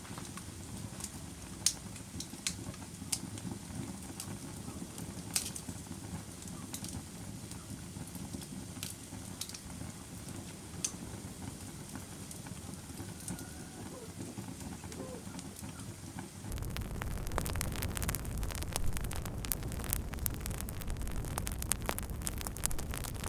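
Wood fire crackling, with scattered sharp pops. About two-thirds of the way through it turns suddenly louder, with denser crackling and a deeper rumble.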